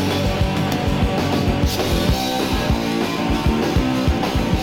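Punk rock band playing live: electric guitar, bass and a fast, driving drum beat in an instrumental stretch between sung lines.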